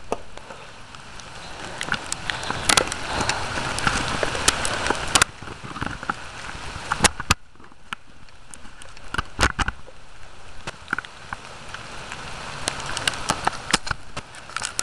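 Hard rain falling on water and leaves, a steady hiss with frequent sharp taps of drops striking close by.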